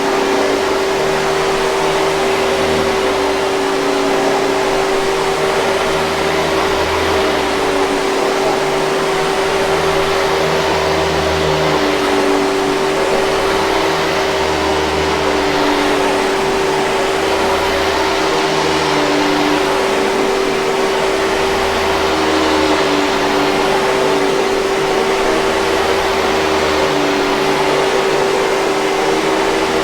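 Hoover 5000 Series canister vacuum running steadily: a constant motor whine over the rush of air, with a low rumble that comes and goes every few seconds.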